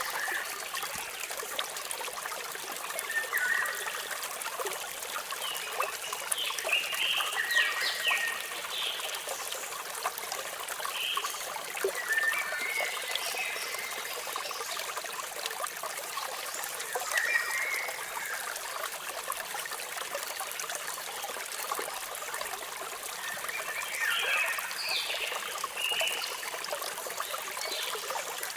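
A waterfall's steady rush of running water, with small birds chirping in short bouts every few seconds over it.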